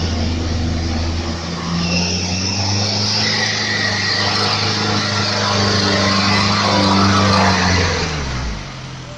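Vehicle engine running steadily, its note holding for several seconds with a faint high whine above it, then dropping in pitch and fading near the end.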